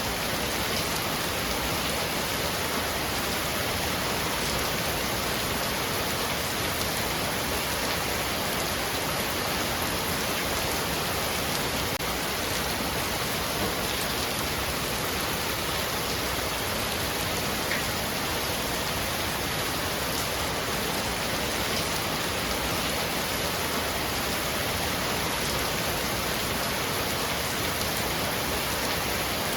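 Heavy rain falling steadily on a roof, an even hiss with the occasional sharper drop tick.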